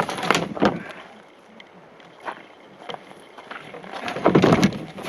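Footsteps and scuffing of someone walking a forest portage trail, with a few sharp knocking steps at the start and a louder scuff about four seconds in.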